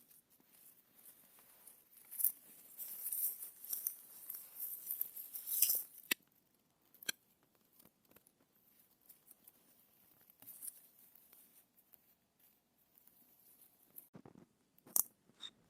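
Crackling rustle of dry leaf litter for a few seconds, then quieter with a few sharp isolated snaps and clicks.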